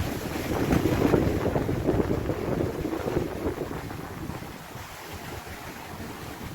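Wind buffeting the microphone over the rush of water along the hull of a sailboat under way, easing off about four seconds in.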